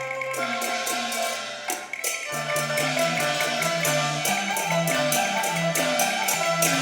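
Cantonese opera instrumental ensemble playing an interlude between sung lines: a melody over sharp percussion clicks keeping a steady beat of about four a second, with a low bass line joining a little over two seconds in.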